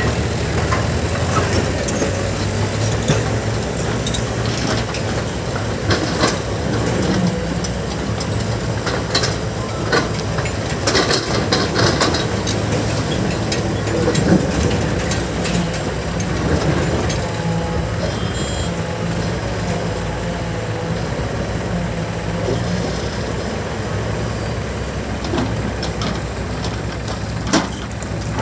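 Diesel engine of a JCB backhoe loader running steadily under work, with scattered short knocks and clanks from the machine.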